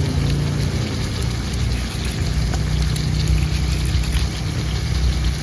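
Meat in coconut milk simmering and bubbling in a pan, with a steady low hum underneath and a few light clicks.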